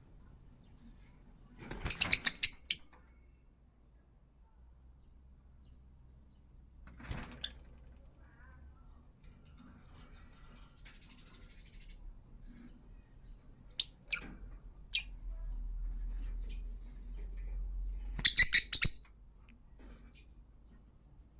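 Parrot giving two short bursts of rapid, high-pitched chirps, about two seconds in and again near the end, with a few single clicks in between.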